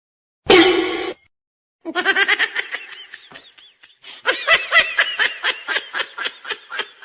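A person laughing hard in two long runs of rapid, repeated 'ha-ha' pulses, the second run starting about four seconds in, after a brief loud sound near the start.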